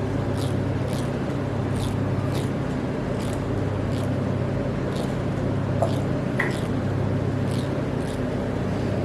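Eyebrow threading: the twisted thread flicking and snapping as it plucks out hairs, a short sharp tick every half second or so, over a steady low hum.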